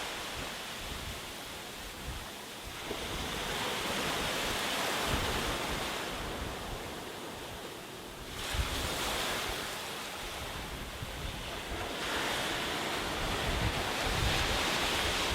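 Sea waves breaking on a beach: surf swelling and washing in about every four to five seconds, with low gusts of wind on the microphone.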